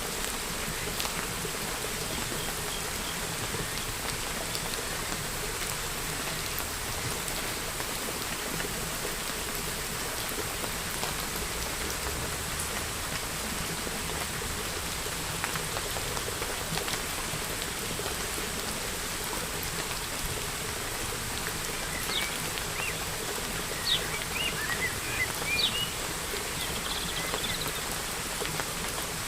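Steady rain falling, with scattered drops ticking on a surface. Late on, a bird gives a run of short chirps over the rain.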